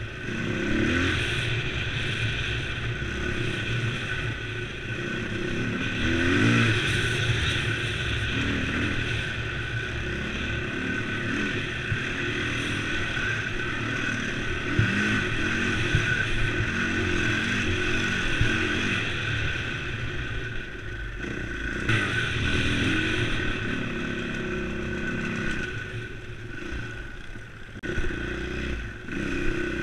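KTM LC4 enduro motorcycle's single-cylinder four-stroke engine under way, its note rising and falling with the throttle. It eases off briefly about two-thirds of the way through and again near the end before picking up.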